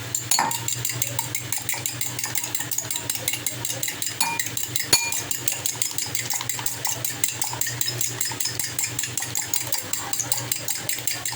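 Two eggs being beaten in a bowl with a fork or spoon: a quick, even clatter of about five strokes a second, the utensil striking the bowl's side.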